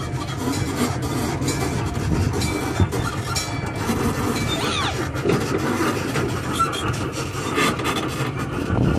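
Miniature train running along its track, heard from an open-sided passenger car: a steady rumble with light clattering and a few faint squeaks.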